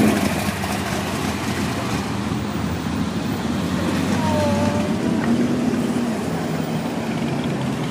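Car engines running, a steady mechanical hum under general outdoor background noise.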